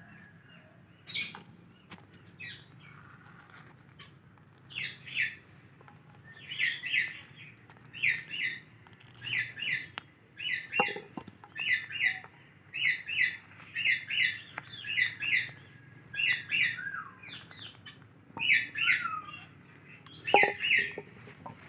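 Parrot chirping: short, high chirps mostly in quick pairs, about one pair a second, with a couple of short falling notes.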